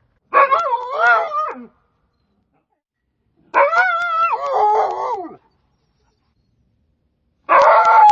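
A dog howling: three long, wavering howls with silent pauses between them, the last one starting near the end.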